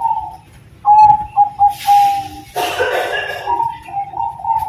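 Zebra dove (Bangkok perkutut) cooing: phrases of a long clear note followed by several quick short notes, one beginning about a second in and another near the end. A brief noisy rush cuts in between the phrases in the middle.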